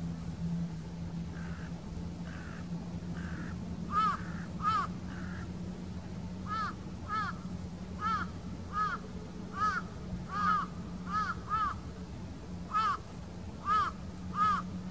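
A bird calling over and over: short calls, often in quick pairs, loud from about four seconds in after a few fainter ones, over a steady low hum.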